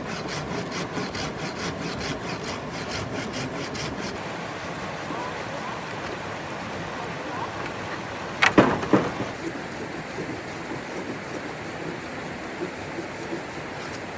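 Steady rushing water, with a quick run of small clicks over the first few seconds and a short loud clatter of knocks about eight and a half seconds in.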